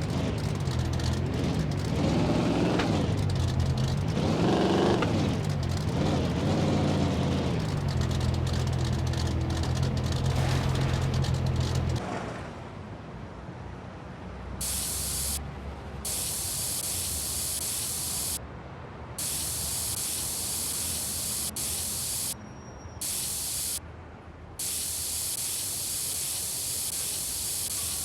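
A vehicle engine runs steadily, rising and falling in pitch a few times, then stops about twelve seconds in. After that a high spraying hiss comes in bursts, switched on and off repeatedly, each burst lasting from under a second to several seconds.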